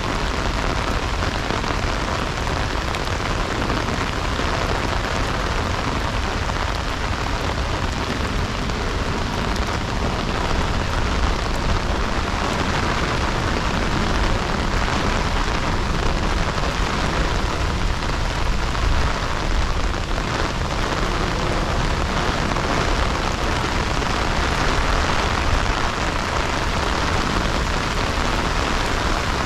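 Heavy rain falling steadily: a continuous even hiss with a low rumble underneath.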